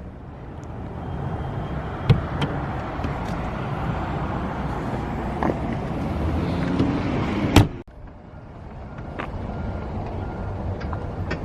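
Road and engine noise of a moving Ford F-150 pickup heard from inside the cab, a steady low rumble with a couple of sharp clicks. The sound breaks off suddenly near the end and builds back up.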